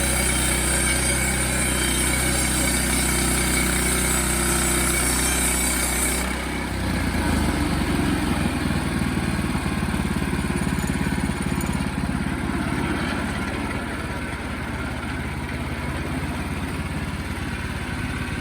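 Sawmill engine running steadily under a high hiss. About six seconds in the hiss stops and the engine drops to a lower, slower idle.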